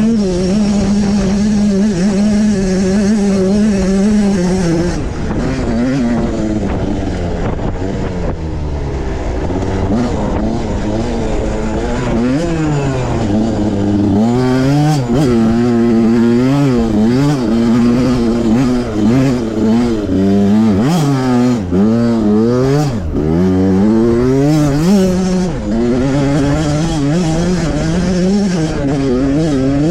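Pit bike's small single-cylinder engine revving hard under riding load. It holds a steady high pitch for about the first five seconds, then rises and falls in pitch again and again as the throttle is opened and closed.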